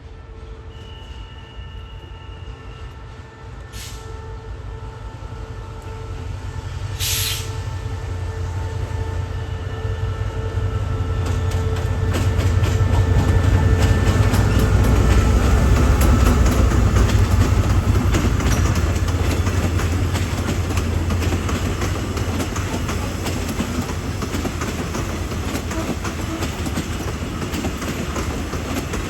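A train drawing near and passing, its low rumble building to its loudest about halfway through and then holding, with wheels clicking over the rail joints through the second half. A brief hiss sounds about seven seconds in.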